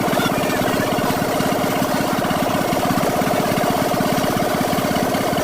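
An engine running steadily at idle with a fast, even chugging pulse and a steady hum.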